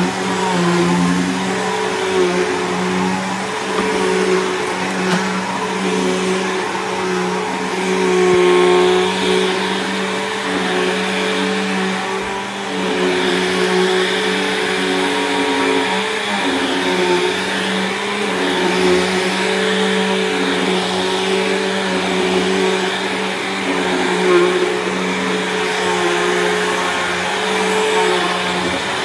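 Bissell CleanView vacuum cleaner running steadily, a motor hum and whine whose pitch wavers slightly as it is worked over the floor.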